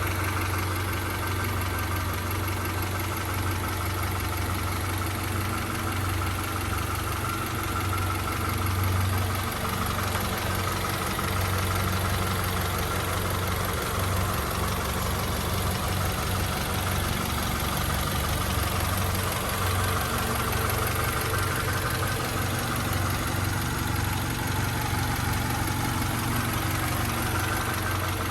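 1993 Honda Prelude's four-cylinder engine idling steadily, with no revving.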